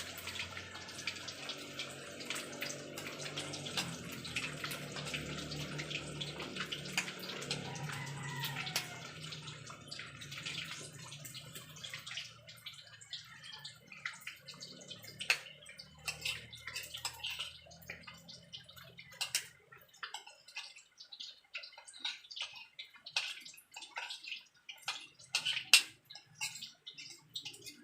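Cornstarch-coated chicken pieces frying in hot oil in a pan: a dense sizzle full of crackles that thins after about twelve seconds to scattered sharp pops, the loudest near the end. A low hum runs under it and stops about two-thirds of the way through.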